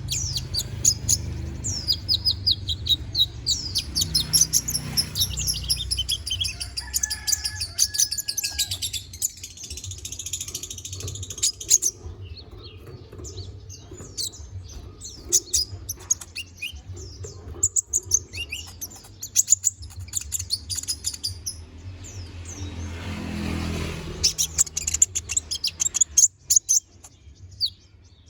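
Konin (kolibri ninja) singing a fast, varied run of high, thin chirps and trills in bursts with short pauses: a song packed with varied phrases ('full isian'). A steady low hum runs underneath.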